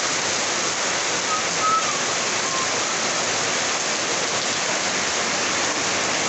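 Heavy rain pouring steadily, a dense even hiss of water.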